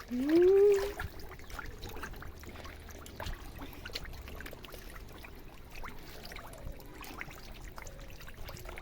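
Water trickling and lightly splashing in a home fish tank, with scattered small splashes and ticks as the fish crowd for food at the surface. A short rising-and-falling tone, the loudest sound, comes right at the start.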